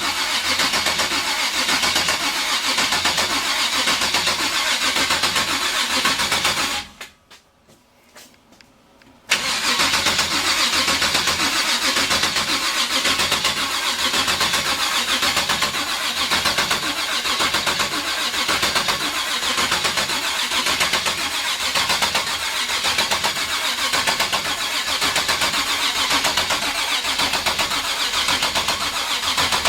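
Starter cranking a 383 stroker V8 with the distributor out, so the engine turns over steadily without firing while it builds oil pressure. The cranking stops about seven seconds in and starts again after a two-second pause.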